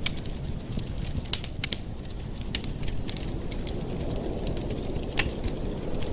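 Campfire burning with irregular sharp crackles and pops over a low steady rumble of the flames, one louder pop about five seconds in.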